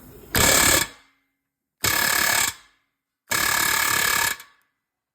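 Pneumatic air hammer rattling in three bursts: a short one, then a slightly longer one, then a longer one of about a second. It is hammering a socket-fitted rod against a rusted, heat-seized muffler bolt to shock it loose.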